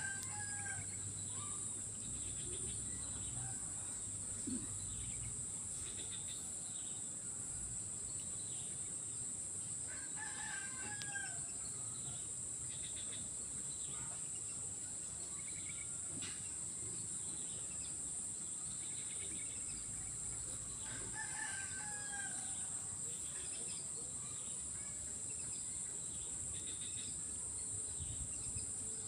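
A rooster crowing three times, about ten seconds apart, over a steady high insect drone.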